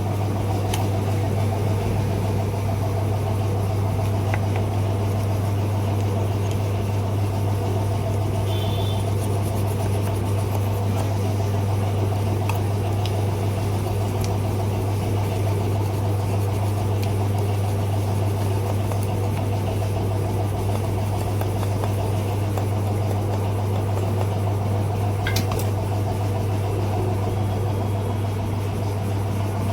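Steady low machine hum that does not change in pitch or level, with a few faint ticks.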